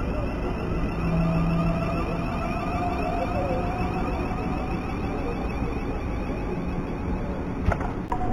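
Southern electric multiple-unit train running past along the platform: a steady rumble of wheels on rail under a steady whine, with a couple of sharp clicks near the end.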